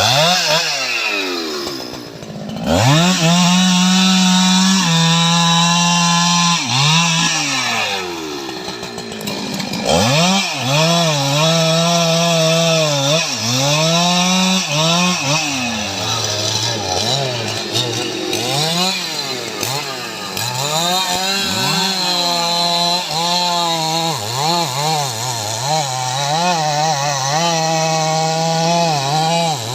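STIHL MS 881 two-stroke chainsaw revving up to full throttle and cutting into wood. Its pitch sags and recovers again and again as the chain loads up in the cut, with quicker, shorter dips in the second half.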